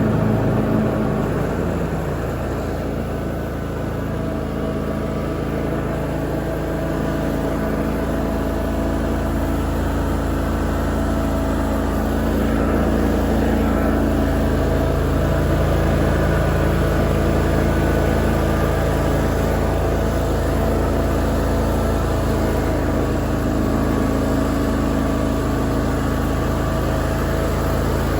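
Lawn mower engine running steadily under load while mowing, a constant drone with a slight dip in level a few seconds in.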